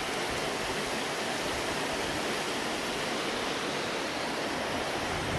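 Water of a small burn (stream) flowing, a steady, even rush.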